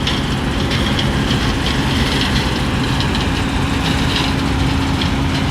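Combine harvester's diesel engine running steadily, a continuous drone.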